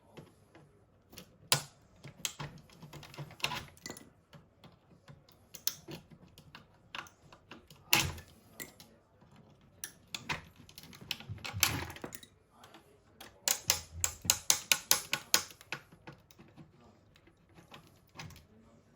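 Small hard parts being handled and clicked together during work on an RC scale model: scattered sharp clicks and taps, one louder knock, and a quick run of about a dozen clicks later on.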